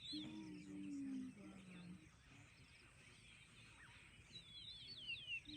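Quiet outdoor ambience: a faint low, drawn-out tone in the first two seconds, then a bird calling a quick run of high, descending chirps near the end.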